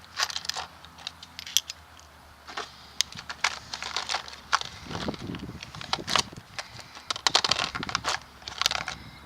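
Irregular metallic clicks, clinks and rattling runs of hand tools and parts at work on a truck drive shaft's U-joints, with the busiest clattering about a second in and again from about seven to nine seconds.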